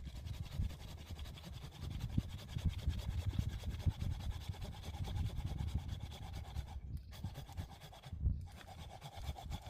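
Hand saw cutting through wood, rapid scraping strokes sped up to double speed, with two brief pauses near the end.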